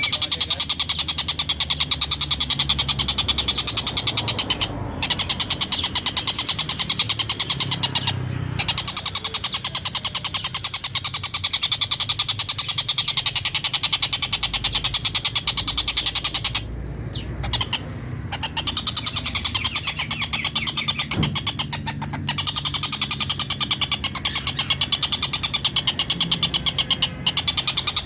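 Collared kingfisher (tengkek buto) giving its rapid chattering 'ngekek' call, a fast run of repeated harsh notes that keeps going with only a few brief breaks. A steady low hum lies underneath.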